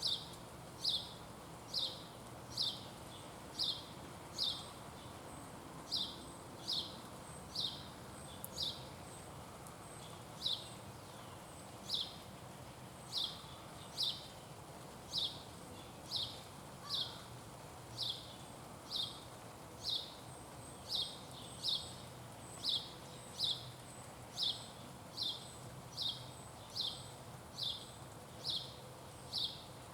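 A small animal's sharp, high chip call, each a quick downward slur, repeated a little more than once a second in a persistent series.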